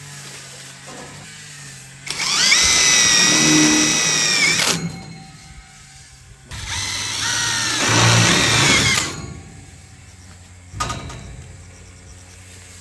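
Electric drill running in two bursts of about two and a half seconds each with a steady high whine, each cut off sharply. A short knock follows near the end.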